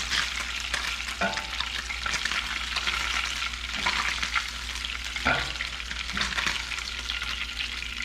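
Porgy fillets sizzling in a frying pan, a steady hiss, with a few short clicks or knocks against the pan.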